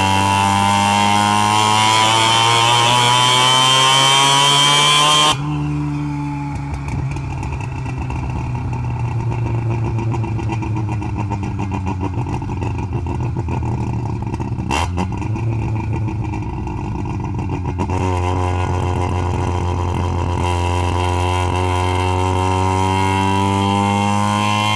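Half-bridgeport-ported Mazda 12A rotary engine pulling with revs climbing, then the throttle snaps shut about five seconds in and the sound drops sharply to a rougher, quieter running. The revs sag and then build again over the last several seconds, with a single click in the middle.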